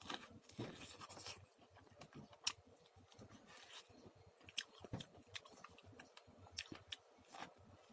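Popcorn being chewed close to the microphone: faint, irregular crunching and crackling, with a sharper crunch about two and a half seconds in.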